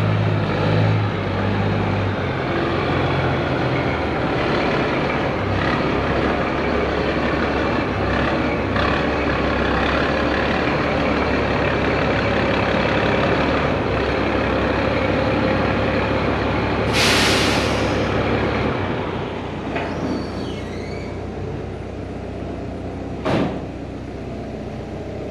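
Chevrolet C8500 medium-duty truck's engine idling steadily, with a loud hiss of air brakes lasting about a second near the end, after which the engine note drops away. A single sharp knock follows a few seconds later.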